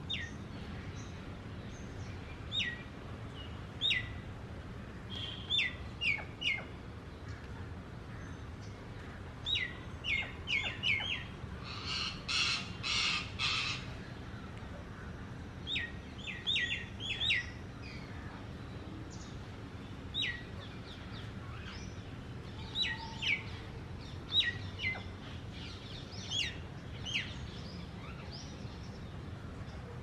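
Babblers calling while feeding: short, sharp chirps, each falling in pitch, come singly and in quick runs of three or four. Near the middle there is a harsh rasping chatter lasting about two seconds.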